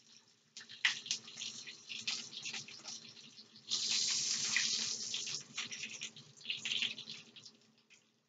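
Raw fish cakes sizzling and crackling in hot oil in a frying pan as they are laid in with a spatula, with a louder, denser burst of sizzling about four seconds in. A steady low hum runs underneath.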